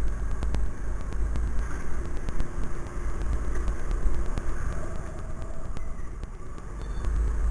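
Wind rumbling on the microphone of a moving scooter, with the hum of its motor and passing traffic underneath.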